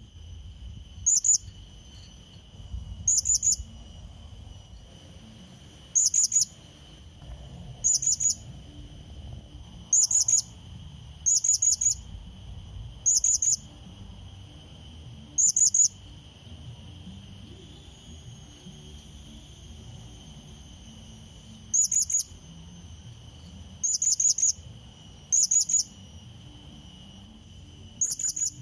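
Blue-crowned hanging parrot (serindit) giving short, shrill, high-pitched calls, each a quick cluster of notes, repeated about a dozen times at irregular intervals with a pause of several seconds in the middle: a call to a rival bird. Steady high insect drone underneath.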